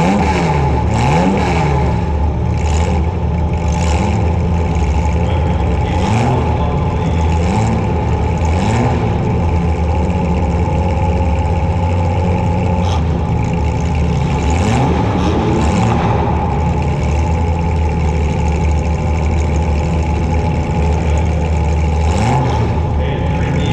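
Demolition derby compact car's engine revving up and falling back over and over under a steady engine drone, with scattered sharp bangs from hits.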